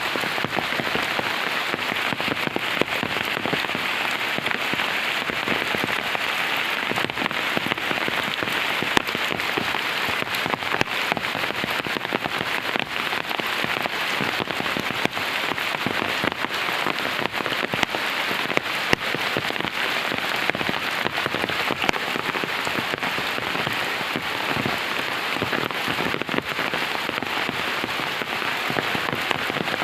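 Heavy monsoon rain falling steadily: a dense, even hiss of drops striking surfaces, peppered with many small sharp taps.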